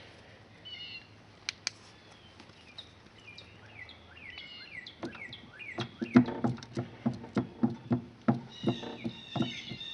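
Small birds chirping over and over. From about five seconds in, a run of quick dull knocks, two or three a second.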